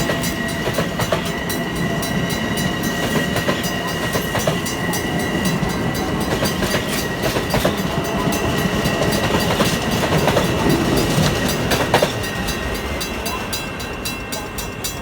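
Train running past on the rails, wheels clicking over rail joints with a steady high-pitched whine, the sound easing off near the end.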